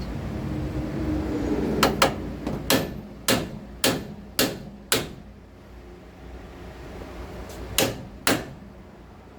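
Hammer striking metal: a run of seven sharp blows about half a second apart, then two more blows near the end.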